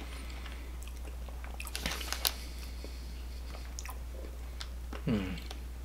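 A person chewing a crunchy chocolate chip cookie, with a few sharp crunches about two seconds in and a short hummed "mm" falling in pitch near the end. A low steady hum runs underneath.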